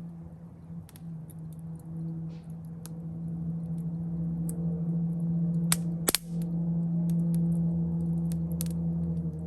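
Campfire wood crackling with scattered sharp pops, two loud snaps about six seconds in, over a steady low hum.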